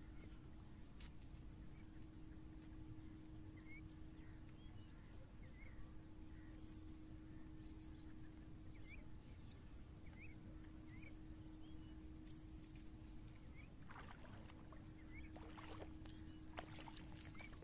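Near-silent lakeshore with faint small-bird chirps repeating throughout, over a steady low hum and rumble. In the last few seconds there are a few brief splashes as a hooked tilapia is pulled out of the water at the rocky edge.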